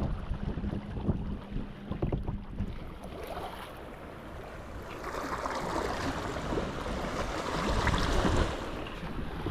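Wind buffeting the microphone with a low rumble, over sea water washing around a kayak. From about halfway through, a louder rushing wash of water swells for a few seconds, then eases near the end.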